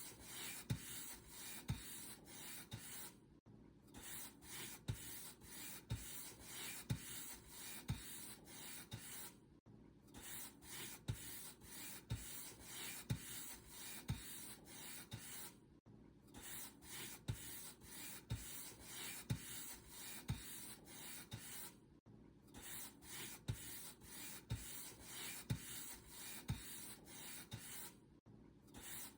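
Paint brush stroking back and forth over a surface, one bristle stroke roughly every half second. The brushing stops briefly about every six seconds and then carries on.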